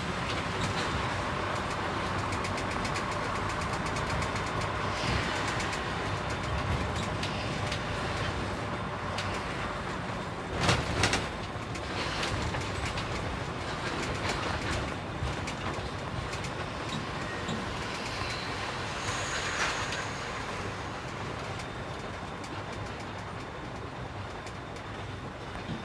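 Container truck driving, heard from inside the cab: a steady hum of the diesel engine and road noise. About ten seconds in, two short loud noises come close together.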